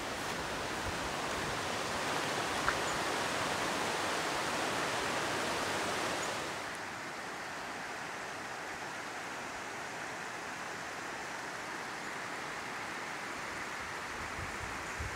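Steady rushing of a river, fuller and brighter for about the first six seconds, then softer and duller for the rest.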